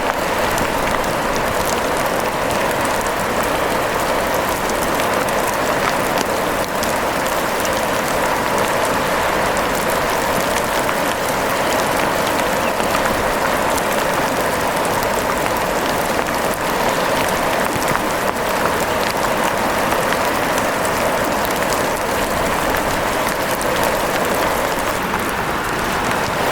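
Steady rain falling, an even hiss dotted with many small drop taps, unchanging throughout.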